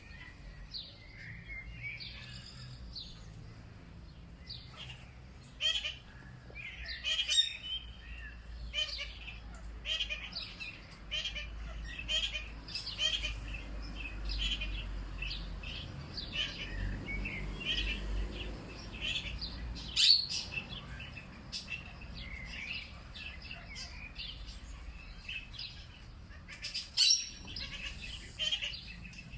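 Many small songbirds chirping and calling in an overlapping chorus of short, high notes, with a few sharper, louder calls standing out, over a faint low rumble.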